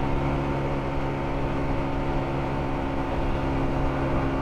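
Motorcycle engine running at steady revs while cruising, with a constant drone and wind rush.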